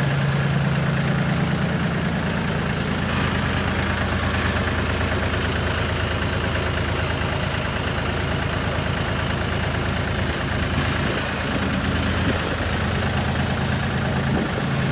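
Tractor diesel engine running steadily, its note shifting slightly a few seconds in and again past the middle.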